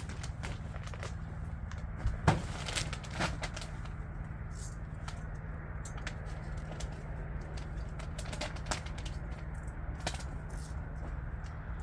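A motor running steadily at a low pitch, with scattered crackling and clicking and a few sharper knocks about two to three seconds in.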